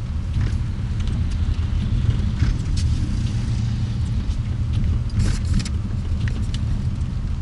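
Car being driven, heard from inside the cabin: a steady low engine and road rumble, with scattered short clicks and rattles, a brighter cluster of them about five seconds in.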